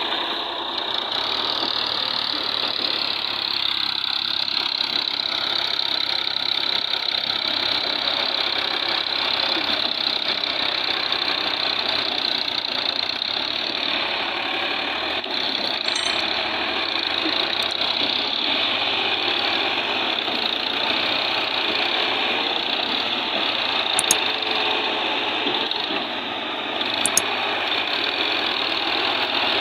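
Diesel tractor engines of a Massey Ferguson 260 and an Al-Ghazi tractor running loud and steady, working hard against each other in a pulling contest. A few sharp clicks come near the end.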